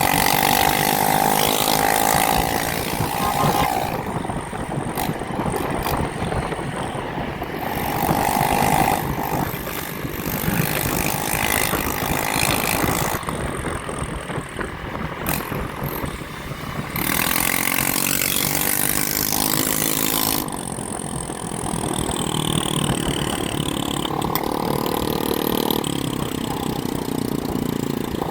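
Motorbike engines revving and easing off in rising and falling sweeps, loudest near the start and again about two-thirds of the way through, over a steady rush of road and wind noise.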